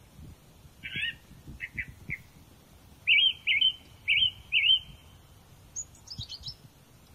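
Wild birds calling: a few short chirps, then four loud repeated slurred notes about three to five seconds in, and a quick high twittering near the end.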